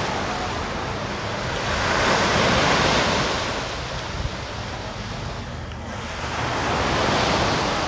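Sea waves washing onto a beach, swelling about two seconds in and again near the end, with wind buffeting the microphone.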